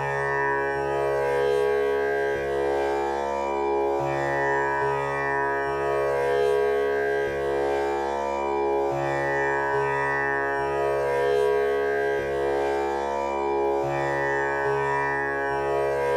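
Tanpura drone tuned to C#: its strings are plucked in turn in a cycle that repeats about every five seconds, each note ringing on with a shimmering buzz of overtones into an unbroken drone.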